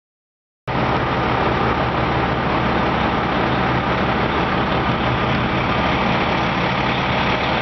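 Heavy truck engine idling steadily, cutting in abruptly under a second in after silence.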